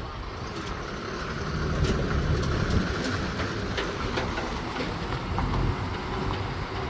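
Heavy truck running, a low rumble with scattered clicks and rattles that grows louder about two seconds in.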